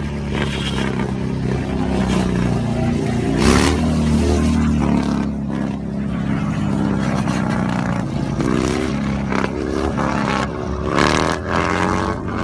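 A vehicle engine running and revving, rising in pitch about three and a half seconds in and again several times near the end.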